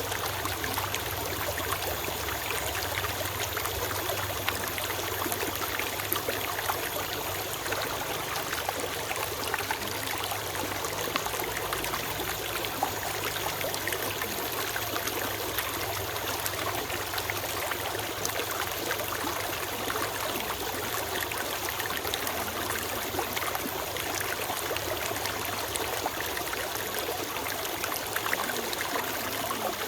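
A forest stream running over stones, a steady rushing and trickling with fine splashes throughout.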